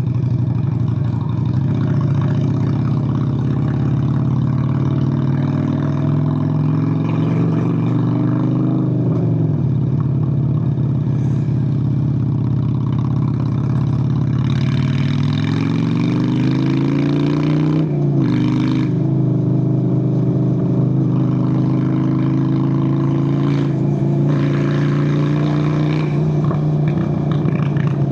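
Honda Steed VLX 600 (Shadow 600) V-twin motorcycle engine running under way. The revs climb and fall back twice, about nine seconds in and again near eighteen seconds, then hold steady.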